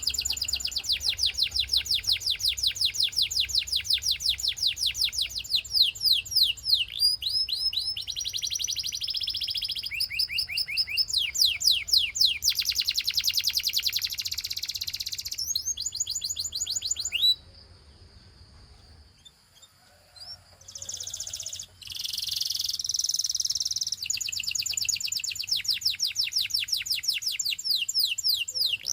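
Canary singing a rapid song of trills, each a fast run of repeated high notes, switching to a new trill every second or two. The song breaks off about two-thirds of the way through for some three seconds, with only faint notes, then starts again.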